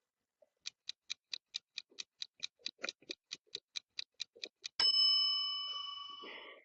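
Clock-ticking sound effect, about five ticks a second, ending in a bell ding that rings and fades: a quiz countdown timer running out.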